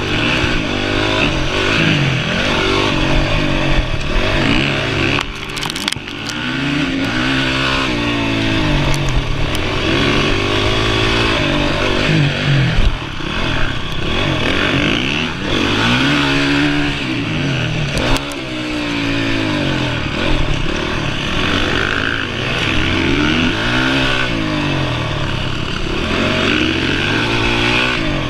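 Honda CRF450R's single-cylinder four-stroke engine being ridden hard, the revs climbing and dropping again every few seconds as the throttle opens and closes. There are a few short knocks, one about six seconds in and another near eighteen seconds.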